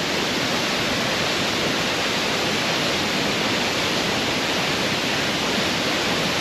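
Curtis Falls in full flood after two days of heavy rain: a steady, loud rush of falling water.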